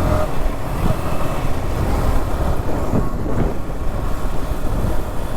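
Motorcycles on the road: a steady rumble of engine and wind noise with no clear engine note.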